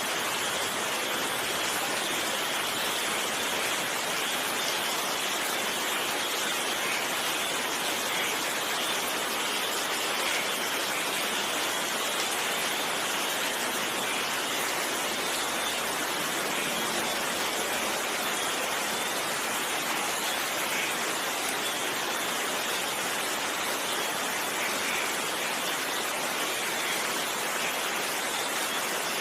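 Steady, heavy rainfall: a dense, even hiss of rain with no break.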